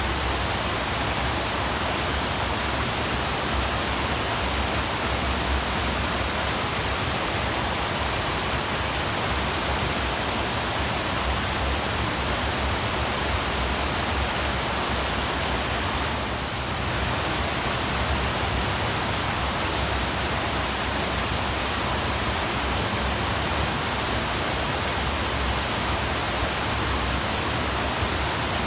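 Steady, even rushing of a waterfall, a continuous wash of falling water with no pauses.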